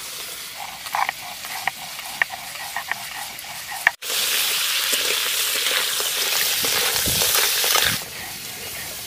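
Crab pieces and claws frying in hot mustard oil in a steel wok, stirred with a metal spatula: a sizzle with scattered spatula clicks for the first few seconds, then a louder, closer sizzle from about four seconds in that falls back about eight seconds in. The crabs are being fried until they turn red.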